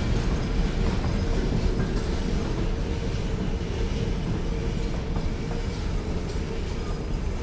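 Freight train: a steady low rumble with a steady hum running through it and occasional faint clicks.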